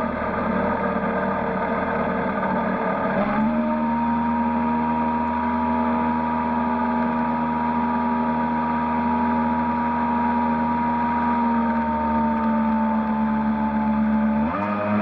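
A boat's motor running at a steady pitch. It speeds up about three seconds in, holds, eases slightly, then rises again near the end.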